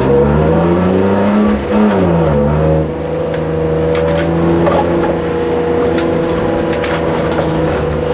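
Car engine heard from inside the cabin during a hard timed run, revs climbing, then falling away about two seconds in and holding a steady, lower pitch for the rest.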